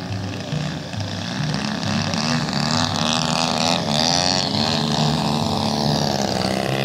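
Engine of a radio-controlled model airplane running in flight, its pitch wavering and then falling in the second half.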